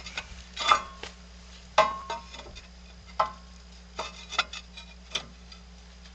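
Steel parts being handled and knocked together, giving about half a dozen irregular metallic clanks and clinks over a steady low electrical hum.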